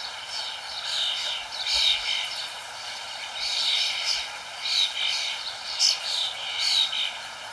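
Birds chirping: short, high calls repeating every half second or so, over a steady background hiss.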